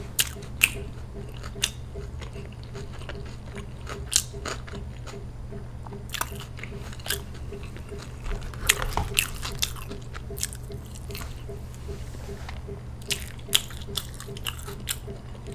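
Close-miked eating sounds: a person biting and chewing fast food, with scattered sharp mouth clicks and a few crunchy bites, over a steady low hum.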